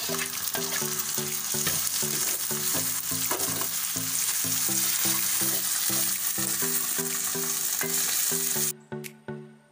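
Chopped tomatoes sizzling loudly in hot oil with fried onions and cumin in a stainless-steel kadai while being stirred. The sizzle cuts off abruptly near the end. Background music with a repeating melody plays underneath throughout.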